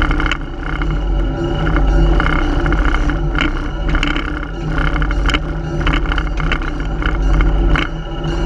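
A slow-moving diesel switcher train: a steady, loud engine drone with irregular sharp clanks and clicks from the wheels and couplings, about one a second.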